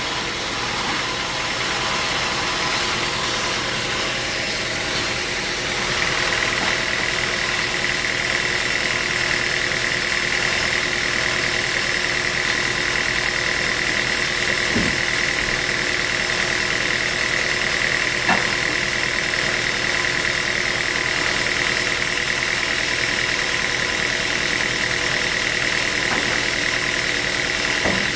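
Sawmill machinery running steadily, with a high whine that sets in about six seconds in and holds, and a single sharp knock about two-thirds of the way through.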